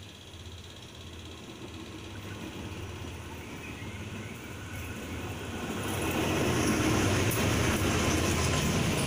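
A GE diesel locomotive hauling a freight train approaches on the next track, its engine growing louder until it passes close by about six seconds in. The container flat wagons behind it then rumble past.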